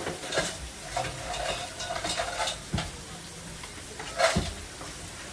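Burger-cooking clatter: metal utensils knocking and scraping on pans or a griddle, with several sharp knocks, the loudest about four seconds in, over the sizzle of frying.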